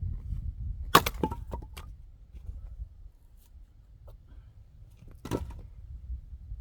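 Axe splitting rounds of frozen oak firewood: a sharp strike about a second in with a few quick cracks right after it as the wood splits, then a second strike near the end.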